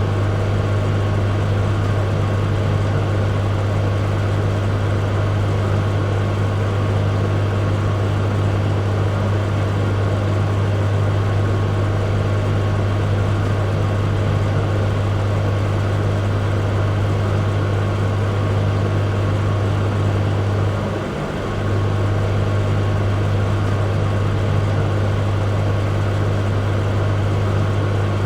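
Microwave oven running: a steady, loud electric hum, with a brief dip about two-thirds of the way through.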